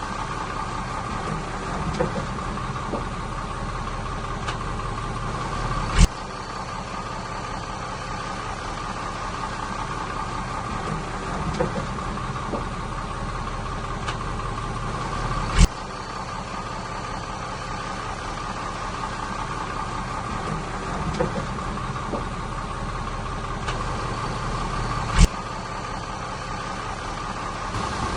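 Diesel engine of heavy earthmoving machinery running steadily, with three sharp clicks about ten seconds apart.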